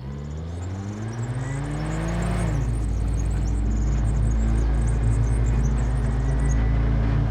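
Car engine accelerating from the start: its note rises for about two seconds, drops sharply as it shifts up, then settles into steady running with a low road rumble.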